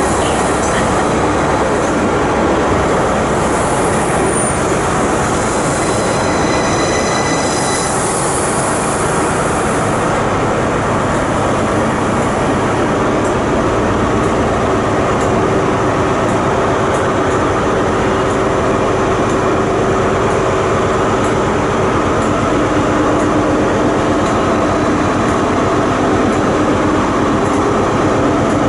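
A train running through the station, loud and steady throughout. About six to eight seconds in there is a brief high squeal, typical of train wheels. From about halfway a steady low hum joins in.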